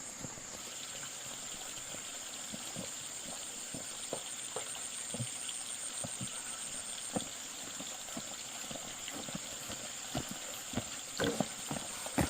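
Steady high-pitched insect drone, with scattered light knocks and taps that come more often near the end.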